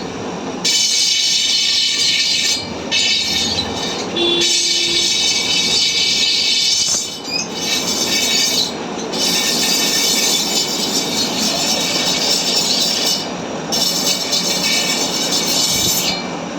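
High-pitched metal-on-metal squealing and grinding from work on a motorcycle alloy front rim, coming in runs of a few seconds with short breaks between them.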